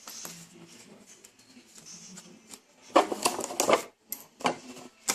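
Hands working a toilet-paper-roll craft with paper and tape: soft rustling, then a burst of crinkling and clicking about three seconds in and a short one about a second later.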